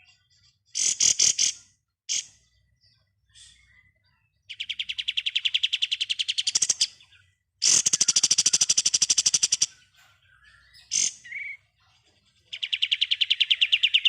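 Kapas tembak songbird singing its rapid 'ngebren' trill: several rattling runs of fast repeated notes, about ten a second, each lasting one to two seconds with short pauses between, and a few brief chirps in the gaps.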